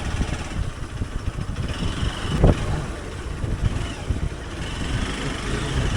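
Hero Xpulse 200 Pro's single-cylinder engine running while riding a trail, with an uneven rumble. A single thump about halfway through.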